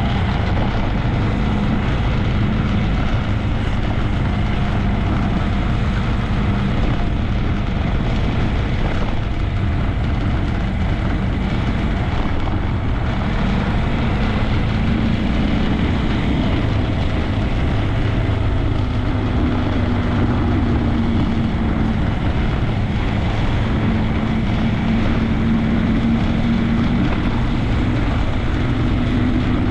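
Honda Grom 125's single-cylinder engine running while the bike is ridden, under heavy wind rumble on the microphone. The engine note rises gradually over the second half.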